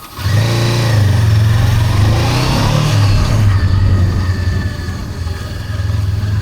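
Honda CB400X's parallel-twin engine starting up and running at idle, with a brief rise in revs about three seconds in.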